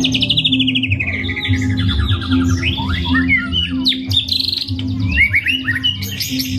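White-rumped shama (murai batu) singing a long, varied song. A rapid trill falls from high to lower pitch over the first two seconds, followed by a quick mix of whistles, chirps and rising notes from its 'full isian' repertoire of mimicked calls.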